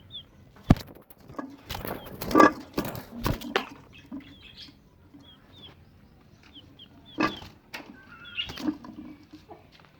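Backyard hens clucking and chicks giving short high peeps, with scattered sharp knocks among them.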